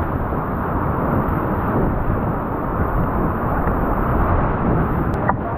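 River rapids rushing: a steady, loud wash of whitewater noise, with one short click about five seconds in.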